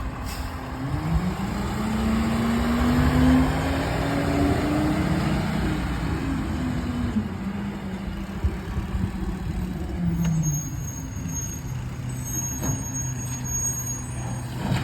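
Garbage truck's engine running and pulling along the street: its pitch climbs for a couple of seconds, peaking at the loudest point about three seconds in, then slowly sinks and settles.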